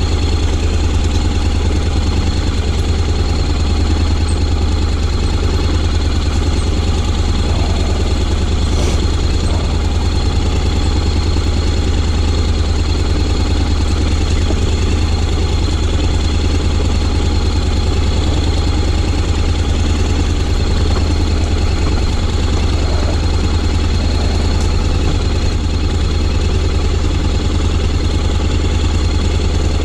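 Honda X-ADV 750's parallel-twin engine idling steadily, a low even hum with no revving.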